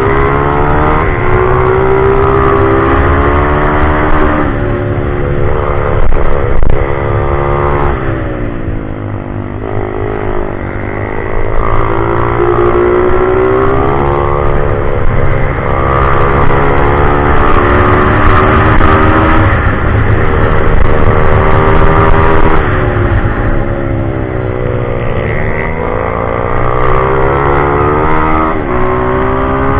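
Pit bike engine revving up and down through a lap, its pitch climbing on each acceleration and falling away into the slower sections, several times over, with a long drop in pitch roughly a third of the way through.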